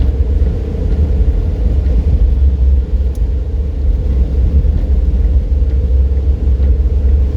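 Car driving at steady speed: a constant low road rumble with a steady hum above it.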